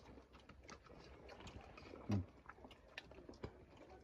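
Faint eating sounds: chewing with scattered small clicks and mouth smacks, and a brief voiced grunt about two seconds in.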